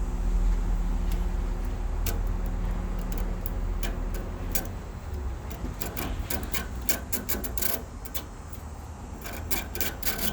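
Plastic fin comb dragged through bent aluminium air-conditioner condenser fins, a rasping run of quick clicks as the teeth catch and straighten the flattened fins, growing busier over the last few seconds.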